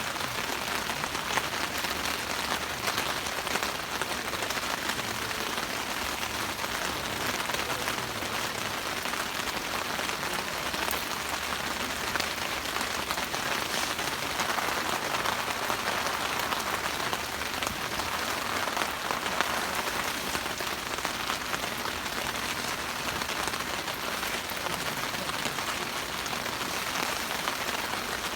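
Steady rain pattering, a dense even hiss of many small drops that keeps going without a break.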